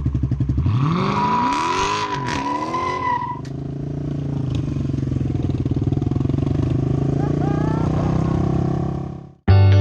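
Vehicle engine revved up and back down twice, with a steady high whine alongside the revs, then running at a steady pulsing speed before fading out near the end.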